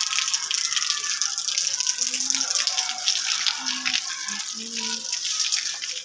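Heavy rain falling and splashing in a steady downpour, with water pouring and spattering.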